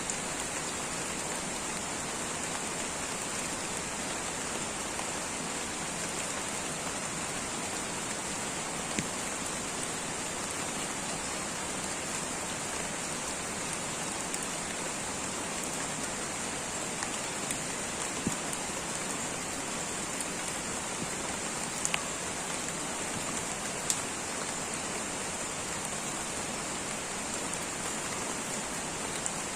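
Light rain falling steadily in a tropical rainforest, an even hiss with occasional individual drops ticking louder.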